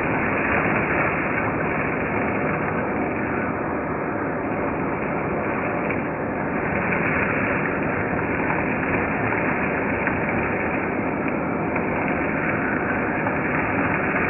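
Hoover Turbopower 2 U2464 upright vacuum cleaner running steadily at full suction.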